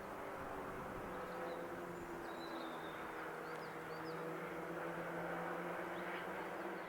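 Faint steady low hum over background hiss, with a few short bird chirps a couple of seconds in.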